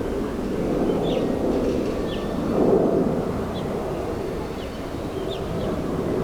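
Steady low outdoor rumble that swells briefly near the middle, with a small bird chirping short high notes every second or so.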